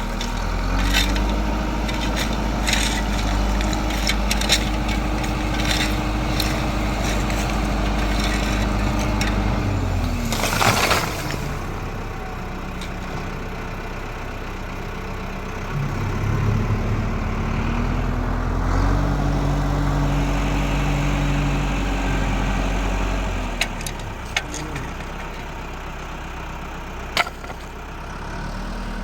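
Tractor engine revving up under load, held for several seconds and dropping back to idle, twice. About ten seconds in there is a brief loud crash, with scattered knocks and clicks throughout.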